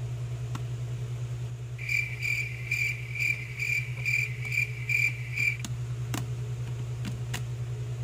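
A steady low hum, with a run of about nine high, evenly spaced chirps, two or three a second, starting about two seconds in and stopping near the middle. Toward the end come a few light clicks of the plastic spin-dryer cap being pressed into the dryer basket of a mini twin-tub washing machine.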